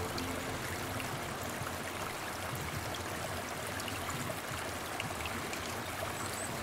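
Steady rain falling on wet paving and puddles: a continuous hiss of drops with small scattered taps and splashes.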